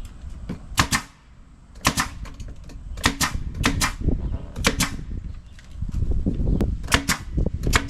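Staple gun firing stainless steel staples through vinyl into a boat seat: about a dozen sharp snaps at an irregular pace, often two in quick succession.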